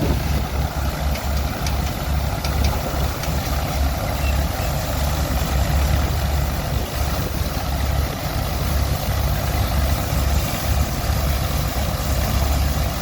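Allis-Chalmers Model M crawler tractor's engine running steadily while it pulls a vintage Rumely combine harvester, with a heavy, uneven low rumble.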